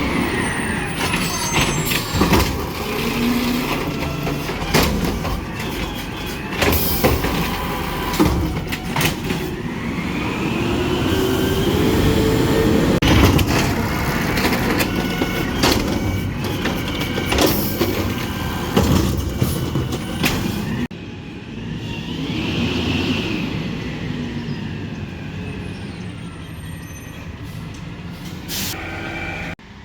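Garbage truck at work: engine running and rising and falling in pitch, with repeated sharp metal clanks and knocks. The level drops suddenly about two-thirds of the way in.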